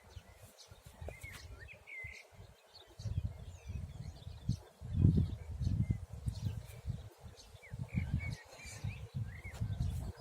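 Small birds chirping, with irregular low rumbling gusts, most likely wind buffeting the microphone, starting about three seconds in and loudest around five seconds in.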